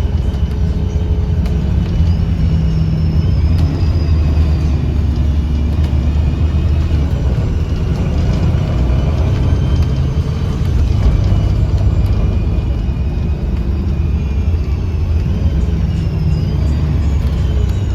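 Diesel bus with a Voith automatic transmission heard from inside, its engine rumbling under way. Over it runs a sharp whistling whine that rises and falls in pitch as the bus accelerates, the strange sound heard from this particular bus.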